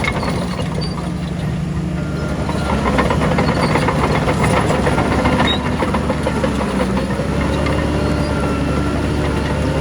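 Heavy diesel earthmoving machinery running, with a dense metallic rattle over the engine; the engine pitch shifts a few times and the sound grows a little louder about three seconds in.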